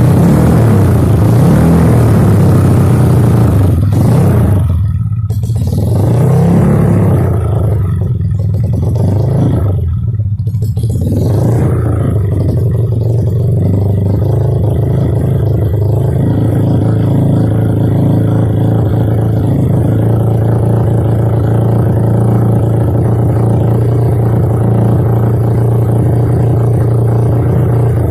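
Kawasaki KLX 200cc trail bike's single-cylinder engine running through an Over Racing aftermarket exhaust. It is revved and let fall a few times in the first ten seconds, then settles to a steady idle.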